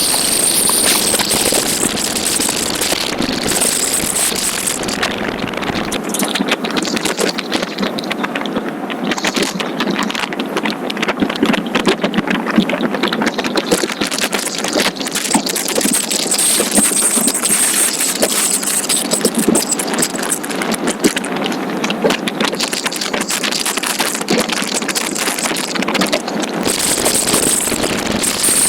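Motorcycle on the road: engine running under a dense, unbroken rush of noise, with constant small jolts on the microphone.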